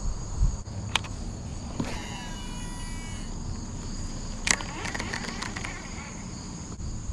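Steady high-pitched chirring of crickets over a low, even rushing background, with a couple of sharp clicks about a second in and again past the middle.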